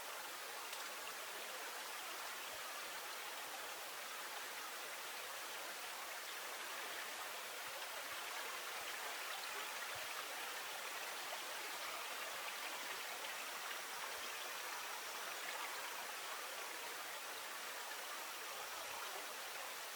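Flowing river water: a steady, even rush of a stream without breaks or distinct splashes.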